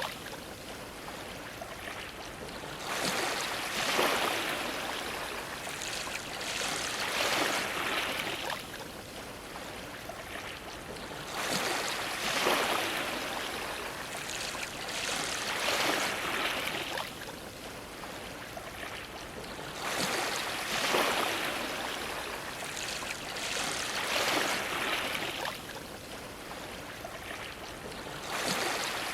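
Ocean waves washing and splashing against a dock. The rush of water swells and fades again about every three to five seconds.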